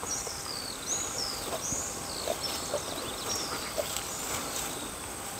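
A bird calling with a string of short, high whistled notes that slur up and down, about two a second, over a faint steady high-pitched tone.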